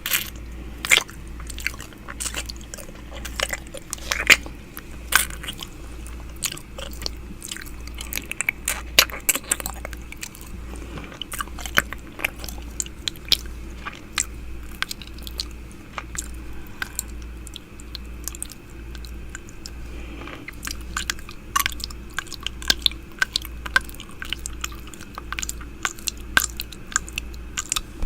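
ASMR 'ear eating': wet mouth sounds made right at the microphone, a string of irregular quick clicks and smacks from lips and tongue. Underneath runs a low, regular throb, a little over one a second.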